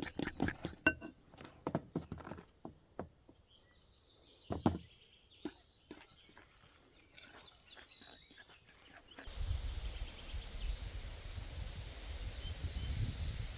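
Spoon stirring thick pancake batter in a bowl, clicking against it about five times a second, slowing and stopping after a couple of seconds. A few scattered knocks follow, with one thunk near the middle. Then steady outdoor background noise with a low rumble.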